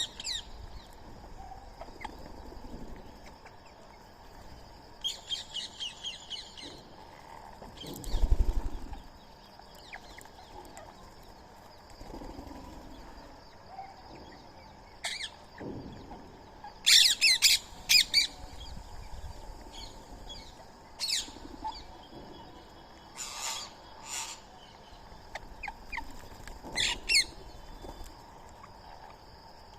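Birds chirping and calling in short, scattered bursts, with a loud low thump about eight seconds in.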